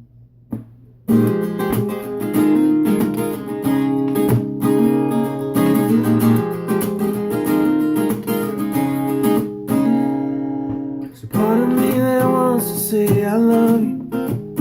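Acoustic guitar strummed in a steady rhythm as a song's intro, starting about a second in; a singing voice comes in over it near the end.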